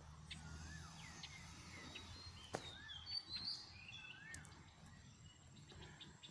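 Faint bird calls: short rising-and-falling whistled notes repeated about every two seconds, with a few higher chirps in the middle, over a low steady rumble. A single sharp click about two and a half seconds in.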